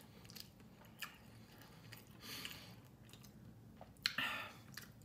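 Faint close-up chewing and mouth sounds of someone eating chicken adobo and rice by hand, with a few soft clicks. Two short breathy noises come about two seconds in and again about four seconds in.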